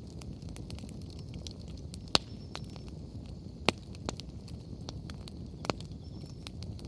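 Wood bonfire crackling, with sharp pops from the burning firewood about two, three and a half, four and five and a half seconds in, over a steady low rumble.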